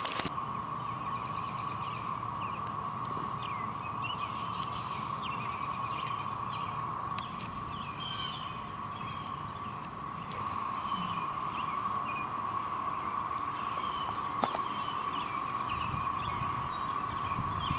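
Chorus of periodical cicadas: a steady, unbroken drone, with short bird chirps over it and one sharp click about fourteen seconds in.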